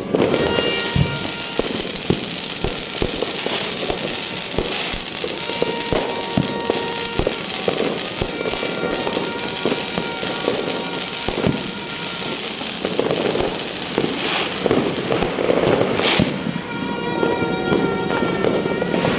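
Fireworks going off continuously: a dense run of bangs and crackles, with music of steady held notes under them.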